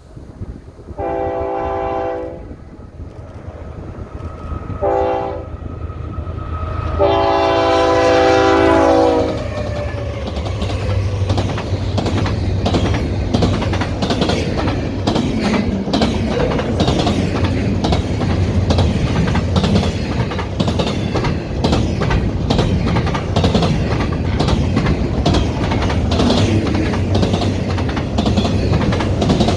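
Canadian Pacific freight train led by a GE ES44AC diesel locomotive sounding its air horn: a long blast, a short one, then a longer one. The diesel locomotives and freight cars then pass with a steady rumble and wheels clicking over the rail joints.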